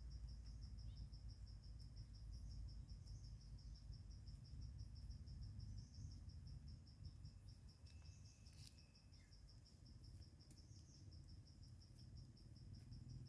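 Faint, steady chirping of a cricket-like insect: an even run of rapid high-pitched pulses that never breaks, over a low rumble.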